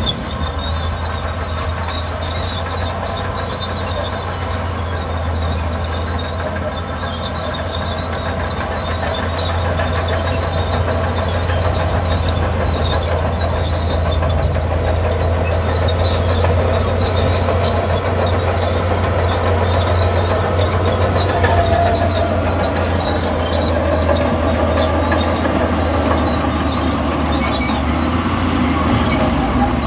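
Crawler bulldozer at work: a steady low diesel drone, with high squealing and clanking from its steel tracks, a little louder after about ten seconds.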